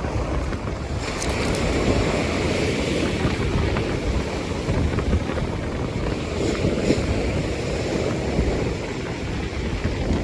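Wind buffeting the microphone over the steady wash of sea surf on the shore.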